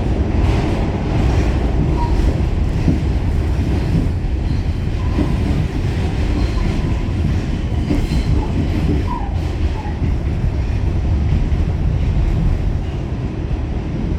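A Pullman Standard R46 subway car running along the track, heard from on board: a loud, steady rumble of wheels and running gear. A few faint short wheel squeaks come about two seconds in and again around nine seconds.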